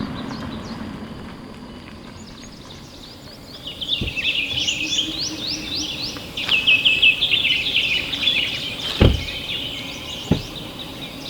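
Birds singing in fast, repeated chirping notes that start a few seconds in and go on, over a low outdoor rumble that fades early. A few dull thumps cut through, the loudest about nine seconds in.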